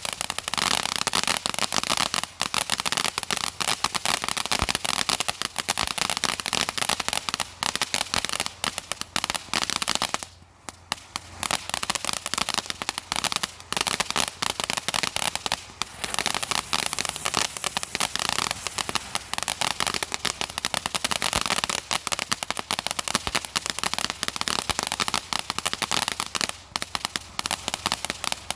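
A crackling firework going off: a dense, continuous rattle of countless small rapid pops, with a short lull about ten seconds in and another near the end. It crackles like hell.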